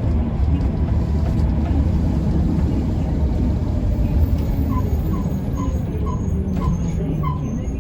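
Steady low engine and road rumble heard riding inside a Mercedes-Benz O405N2 city bus. From a little past halfway, a run of short, high chirps repeats about two to three times a second.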